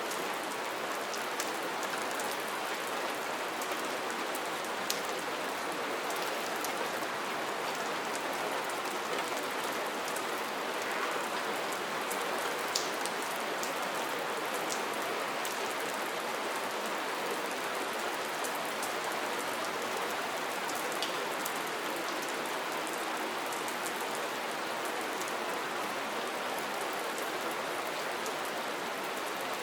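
Steady rain falling, a continuous even hiss with scattered individual drops ticking sharply now and then.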